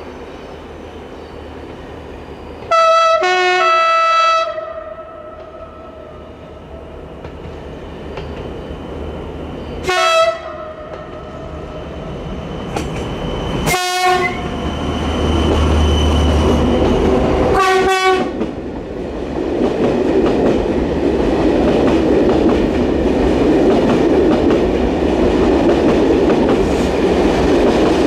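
Two BB 67000-series diesel-electric locomotives in multiple sounding their horns: a long blast about three seconds in, then three short blasts. Meanwhile the locomotives draw near and pass, engines running loud, and the coaches rumble over the rails after them.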